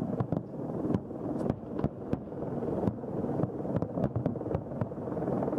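Fireworks barrage: many shells bursting in quick succession, giving irregular sharp bangs and cracks over a continuous rumble.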